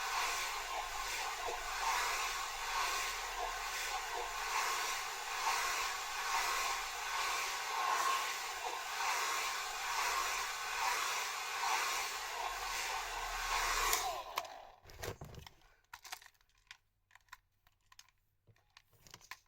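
Hair dryer blowing steadily, its air noise wavering slightly as it is moved, then switched off about fourteen seconds in. A few faint clicks and rustles follow.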